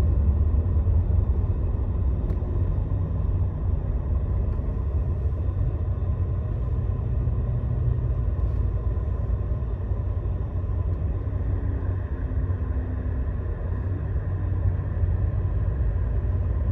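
Scania Astromega double-decker highway bus driving, a steady low rumble of engine and road noise with no change throughout.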